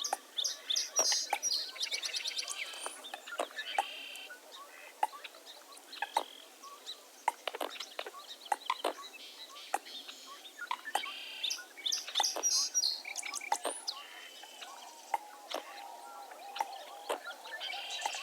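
Mixed birdsong from many birds at once: bursts of rapid high trills and chirps twice, scattered sharp short calls throughout, and lower warbling calls coming in near the end.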